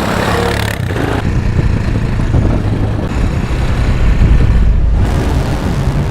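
A motor vehicle's engine running loudly with a rough low rumble.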